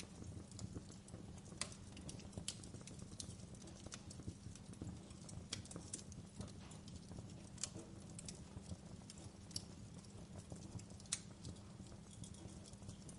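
Wood fire of burning logs in a fireplace crackling, with irregular sharp pops every second or two over a low steady rumble of the flames.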